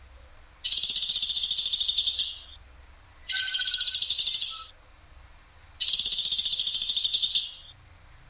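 A bird known to Indonesian bird-keepers as the platuk Sampit, giving three loud, rapid, high-pitched trills of about two seconds each, with short pauses between them.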